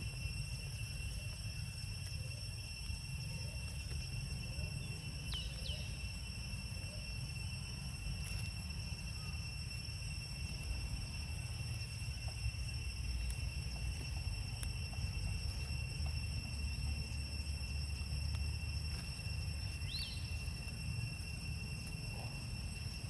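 Steady, unbroken high-pitched insect drone with a low rumble beneath, and two brief faint chirps, one about five seconds in and one near the end.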